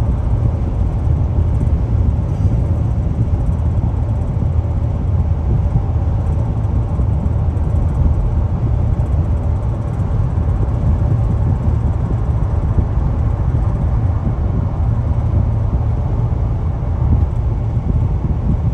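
Steady low rumble of a car in motion, heard from inside the cabin: tyre and road noise with the engine underneath, unchanging throughout.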